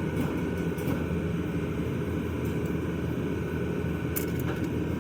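Steady low machinery hum and rumble, with a couple of light clicks about four seconds in.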